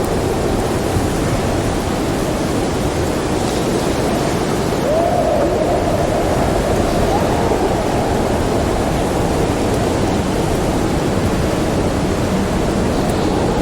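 Snowstorm wind howling in a steady, loud rush. About five seconds in, a whistling moan rises and wavers for a couple of seconds.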